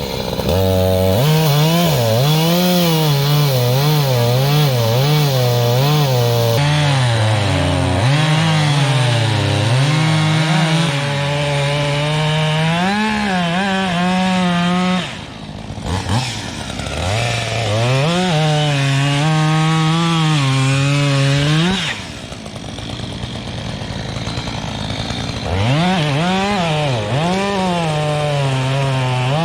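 Reciprocating saw cutting through a downed log, its motor pitch wavering up and down as the blade loads and frees in the wood. It stops briefly about halfway through, then runs more lightly for a few seconds before cutting hard again.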